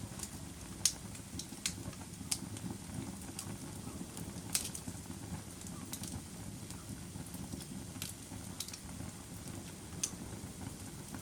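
Wood fire burning with a steady low rumble and sharp, irregular crackles and pops, the loudest about four and a half seconds in.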